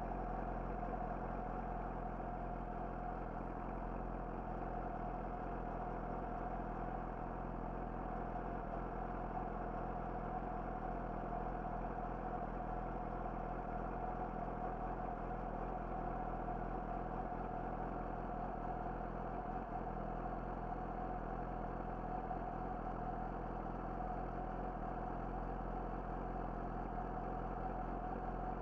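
Yamaha YZF-R6's inline-four engine idling steadily through an Akrapovic slip-on exhaust, its pitch unchanged throughout.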